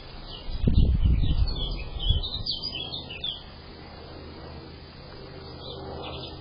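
Small birds chirping in short high notes, with a burst of low thumping and rustling close to the microphone about a second in.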